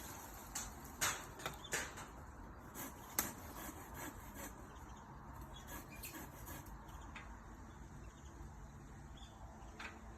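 Scattered light knocks and clicks, several in the first three seconds and only a few after that, over a faint steady background.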